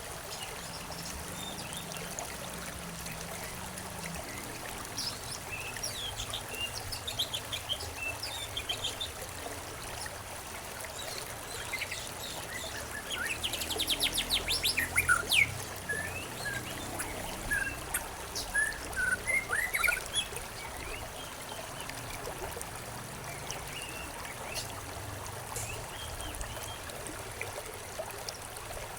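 Songbirds chirping and trilling over a steady trickle of a stream, with a busy run of calls through the middle and a quieter stretch of running water towards the end.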